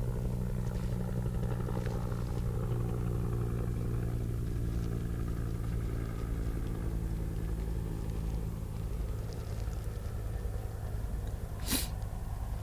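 Steady low mechanical hum, engine-like, with even pitched lines, and one sharp click near the end.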